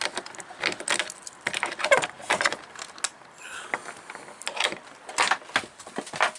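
A string of irregular clicks, knocks and light rattles, as of things being handled or moved about.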